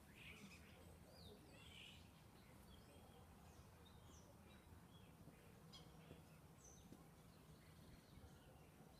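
Near silence outdoors with faint, scattered bird chirps, a little stronger in the first two seconds, over a low steady hum.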